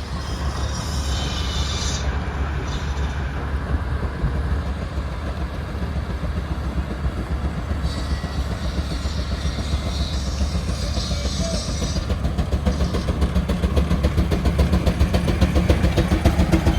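A large engine running with a fast, steady chugging beat, growing louder toward the end.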